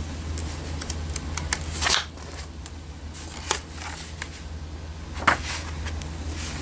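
Pages of a paper car brochure being handled and turned: scattered rustles and crisp flicks, the sharpest about two, three and a half and five seconds in.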